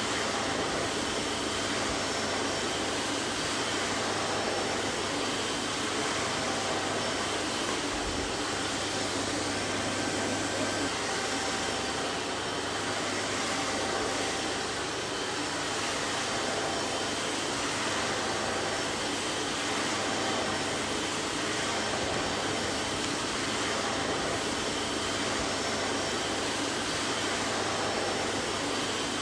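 Vacuum cleaner running steadily, an even rushing hiss with a low motor hum and a few faint steady whining tones.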